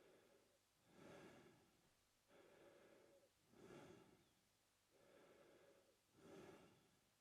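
A man breathing slowly and steadily through his mouth, faint and regular, with inhales and exhales alternating about every 1.3 seconds.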